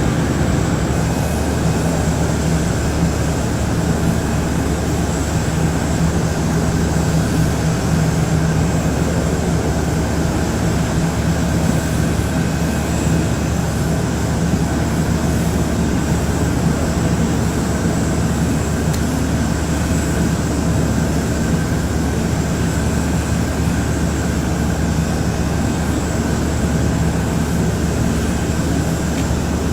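Jet aircraft engines running steadily: a constant loud drone with a low hum and a thin high-pitched whine, no change throughout.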